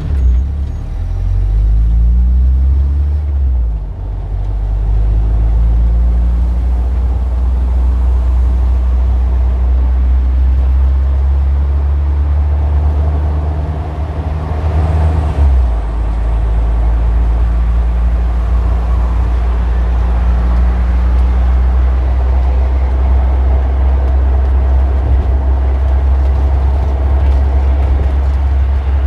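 Street traffic dominated by a heavy engine running close by: a steady low rumble whose pitch shifts during the first few seconds and changes again about halfway through.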